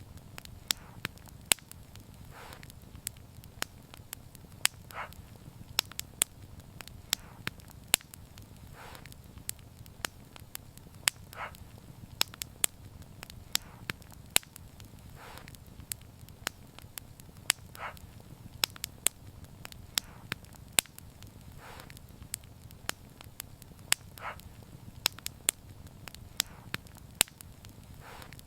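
Wood fire crackling, with frequent sharp pops over a low, steady rumble of the flames and a soft, brief hiss every two seconds or so.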